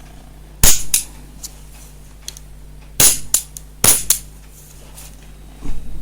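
Piezo gas-stove lighter being clicked three times: each sharp snap is followed by a lighter click a fraction of a second later.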